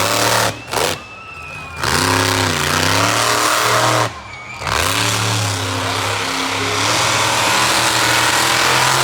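Master of Disaster monster truck's engine revving hard, its pitch rising and falling as the throttle is worked. It is cut back briefly twice, about a second in and again around four seconds in, before winding up again.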